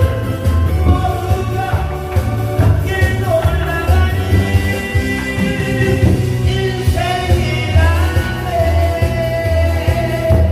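A singer's voice over a loud backing track, with a pulsing bass beat and long held notes.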